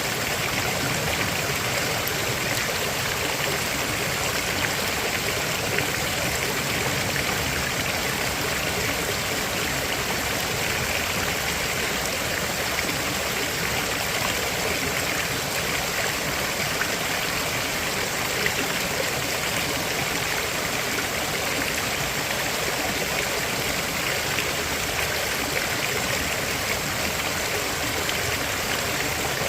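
River water flowing over rocks, a steady rushing and burbling with no breaks.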